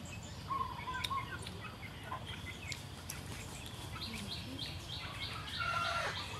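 Small birds chirping and calling in the surrounding trees: scattered short whistled notes, then from about four seconds in a quick, evenly repeated high chirp of three or four notes a second.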